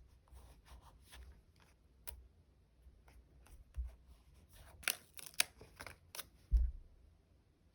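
Close-up stationery handling while decorating a sticker diary: scattered crisp clicks, snips and crackles of paper and sticker sheets, with a cluster of sharper clicks past the middle and a soft thump about two-thirds of the way through.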